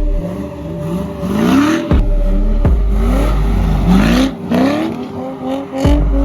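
Drift car engine revving hard again and again, each rev rising in pitch, with a haze of noise at the peaks of the revs.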